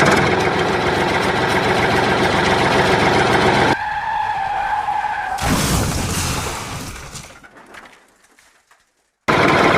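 A vehicle engine running loud for about four seconds, then a steady whine, then a rushing noise that fades out to silence. An engine cuts back in abruptly near the end.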